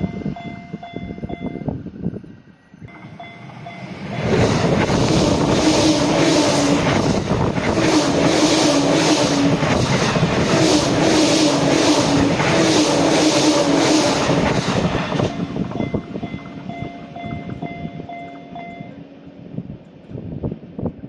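An electric JR Sobu Line train passing over a Japanese level crossing. It is loud for about eleven seconds from about four seconds in, then fades, while the crossing's warning bell rings on and off before and after it.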